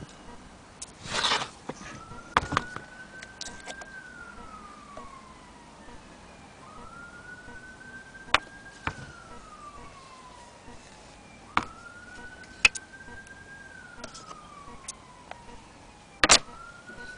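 A distant wailing siren: one tone rising, holding, then falling in slow cycles about every five seconds. Over it come a few sharp clicks and a short clatter, louder than the siren.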